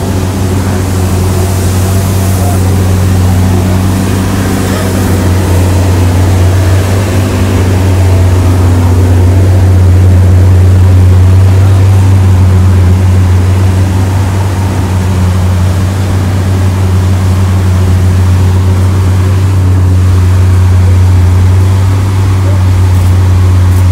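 Lamborghini Aventador SVJ's V12 engine idling steadily with a deep, even drone.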